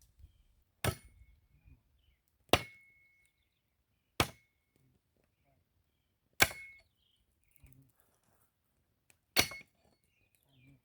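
Axe striking a log of firewood, five separate chops at an uneven pace, some followed by a brief metallic ring from the axe head. The strokes are only taking small chips off the wood.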